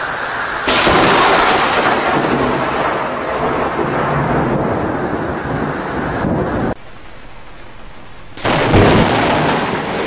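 Thunder rumbling over steady rain: a long rumble swells about a second in and cuts off suddenly after several seconds, leaving quieter rain, then a fresh clap of thunder comes near the end.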